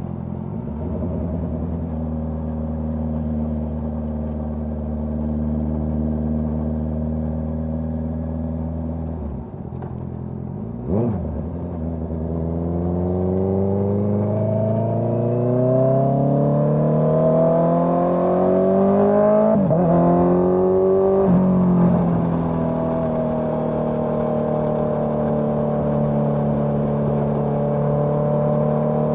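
Honda CBR650R inline-four engine through a Dominator GP full-system exhaust. It runs at a steady note, then accelerates hard from about twelve seconds in with the pitch climbing. Near twenty seconds the pitch drops twice in quick succession at the upshifts, then it holds a steady, higher-pitched cruise. There is a brief sharp sound about eleven seconds in.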